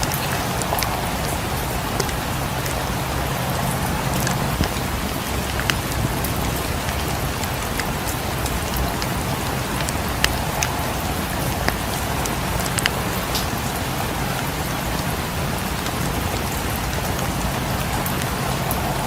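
Steady rain falling on a cabin's roof and windows, with scattered sharp crackles from a wood fire in a fireplace.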